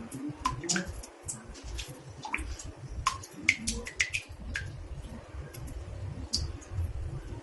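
Water drops falling into a bathtub: irregular short plinks, several a second, over a low background rumble.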